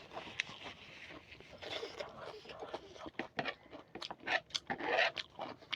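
Close-miked eating: crunchy bites and chewing with wet mouth clicks, louder in a few bursts near the end.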